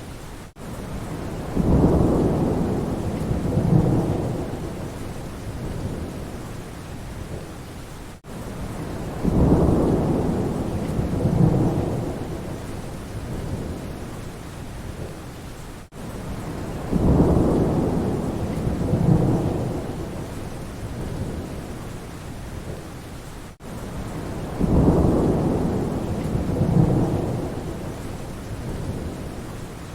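Steady rain with a low thunder rumble that swells twice and fades, coming back identically about every eight seconds: a short rain-and-thunder recording played on a loop, with a brief dropout at each seam.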